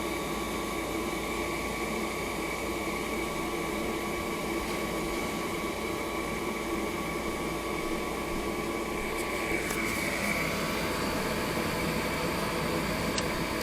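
Gas furnace draft inducer motor running steadily with a fan hum and a faint whine. Near the end comes a single sharp click as the gas valve solenoid opens, while the failed hot surface igniter leaves the burner unlit.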